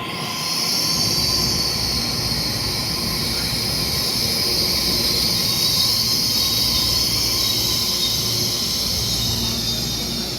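Taiwan Railway EMU3000 electric multiple unit pulling into a station and slowing, with a steady low rumble of wheels on rail. A loud, high-pitched brake squeal sets in right at the start and holds as the train slows.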